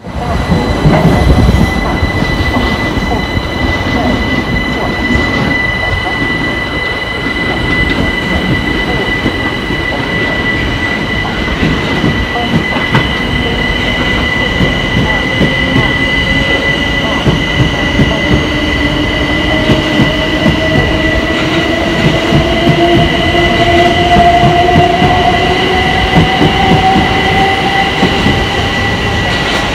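Train at a station, loud and close, with a steady high-pitched whine throughout. From about halfway a second, lower whine comes in and rises slowly in pitch.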